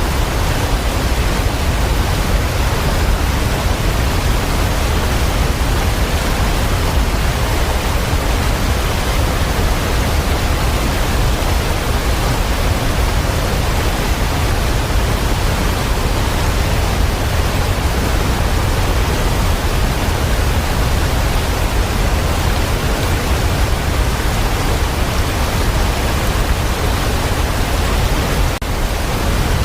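Steady, even rushing noise of falling water with a strong low rumble underneath, no single drops or events standing out; it dips briefly near the end.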